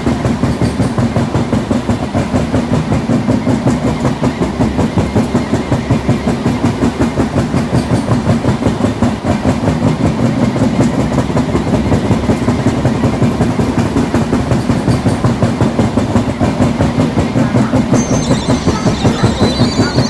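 Passing train's wheels clattering over rail joints in a fast, even rhythm. About two seconds before the end a high, steady wheel squeal sets in.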